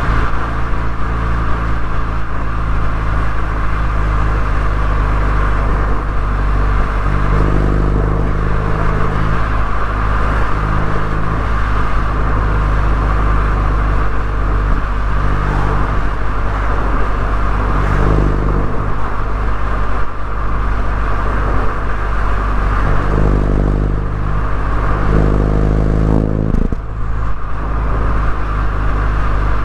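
MINI Cooper S four-cylinder engine and exhaust while driving, the engine note rising and falling in pitch a few times as it accelerates and eases off, over steady road noise.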